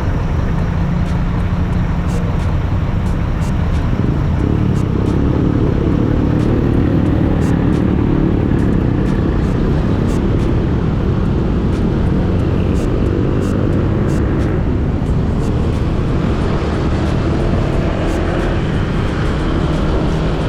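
Riding on a motorcycle: a steady, loud low rumble of wind and road noise on the action camera's built-in microphone, with the motorcycle's engine running underneath.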